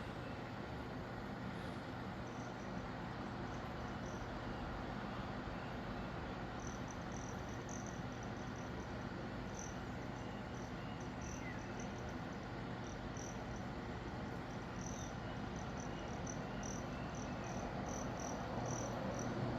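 Outdoor background: a steady noise bed with a low hum, over which short high chirps repeat many times, irregularly spaced, growing more frequent toward the end.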